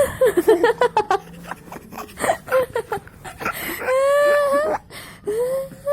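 A small child's high voice whining and wailing rather than speaking: short rising and falling sounds first, then a long drawn-out wail about four seconds in and a shorter one near the end.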